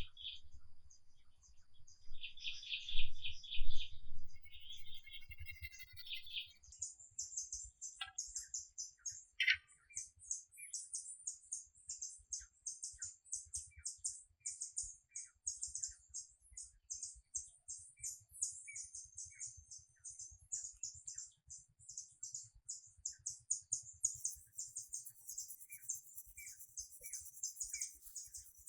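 Birds chirping in the first few seconds, then from about seven seconds in a high, steady trill of rapid even pulses, about five a second, that carries on.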